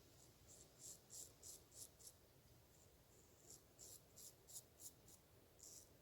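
Straight razor scraping through stubble in short, quick strokes, about three a second, in two runs with a pause between; faint.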